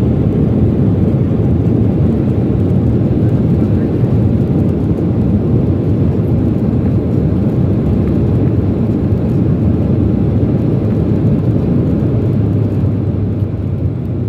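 Steady engine and airflow noise of a passenger jet heard inside the cabin during landing, easing slightly near the end.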